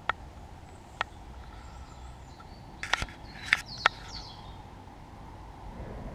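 A few sharp clinks and knocks of camp cooking gear being handled while water is put on to boil, five in all, the loudest just after the middle. Faint bird calls sound behind them.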